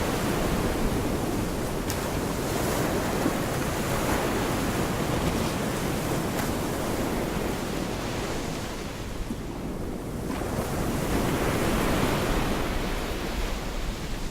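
Gulf of Mexico surf washing onto the beach, with wind buffeting the microphone. The wash eases about two-thirds of the way through, then swells as the next wave comes in.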